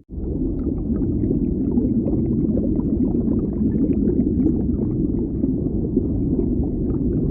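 Underwater ambience: a steady deep rumble with faint bubbling over it. The sound drops out for an instant right at the start, then resumes.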